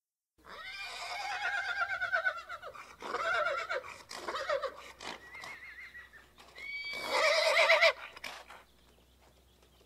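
A horse whinnying in three loud, quavering calls: one just after the start, a shorter one about three seconds in, and the loudest about seven seconds in. A fainter whinny comes between the last two, and a few sharp knocks fall between the calls.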